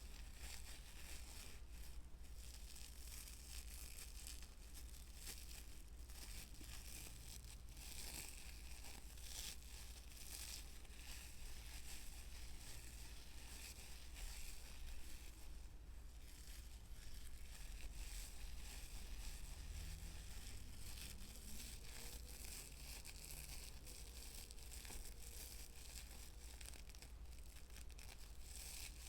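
Close-miked ASMR trigger sounds: a continuous stream of soft crinkling, scratching and tearing-like crackles.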